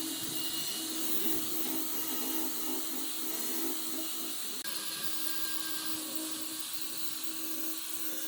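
An electric power tool running steadily on wood, a whirring motor with a high hiss, which changes abruptly about halfway through.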